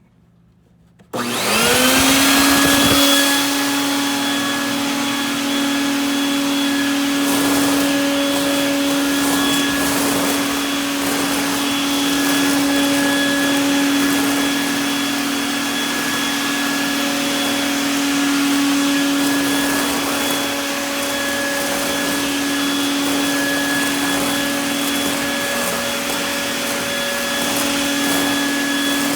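Craftsman double-insulated shop vacuum switched on about a second in: its motor whine rises quickly to speed, then runs steadily.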